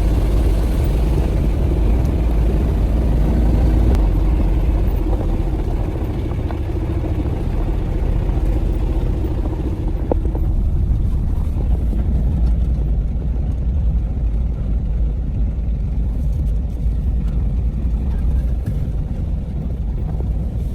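A vehicle engine running with a steady low rumble, a little softer in the second half.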